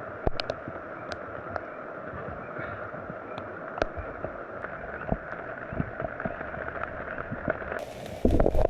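Steady patter of rain with scattered sharp ticks of drops hitting something close by. Near the end the sound changes abruptly and a loud low rumble sets in on the microphone.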